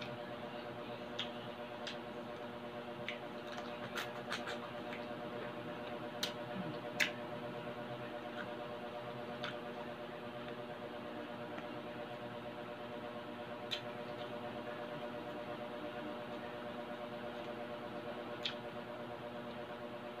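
Chewing crispy deep-fried pork belly, with about a dozen sharp crackles of the crunchy skin scattered irregularly, over a steady background hum.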